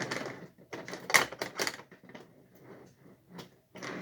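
Handling noise from model train boxcars and their boxes: a few sharp clicks and knocks about a second in, with soft rustling and scraping around them.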